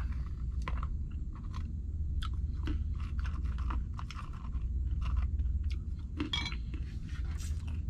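A person chewing food close to the microphone, with irregular crisp crunches, over a steady low hum.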